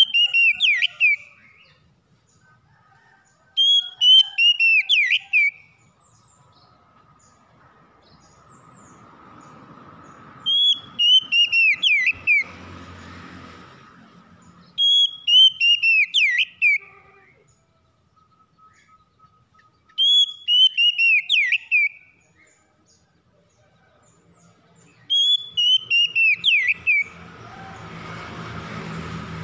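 Oriental magpie-robin (kacer) singing the same short phrase about every five seconds, six times: a quick run of clear whistled notes, each sliding down in pitch. A faint hiss swells and fades twice between the phrases.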